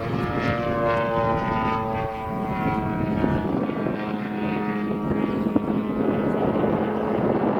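A radio-controlled model airplane's motor and propeller buzzing in flight. Its pitch slides down over the first three seconds, then holds steadier.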